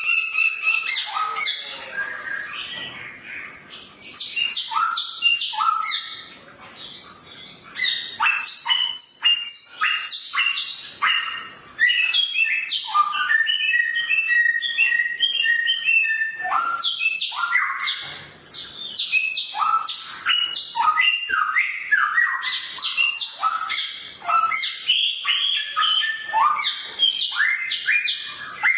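A samyong songbird singing a loud, rapid, varied song of sharp chirps, short whistles and harsh chattering notes, with two brief pauses.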